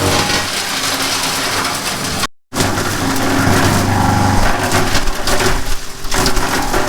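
3-inch wood chipper (CMA-W3) running under load, chipping branches: a steady machine hum under dense cracking and splintering of wood. The sound drops out briefly about two and a half seconds in.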